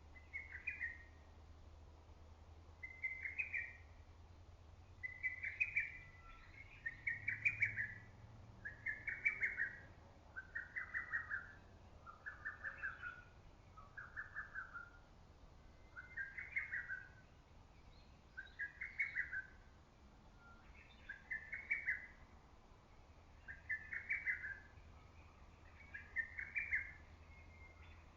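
Lesser cuckoo singing its rapid, staccato multi-note phrase over and over, roughly every two seconds, some phrases pitched slightly lower than others.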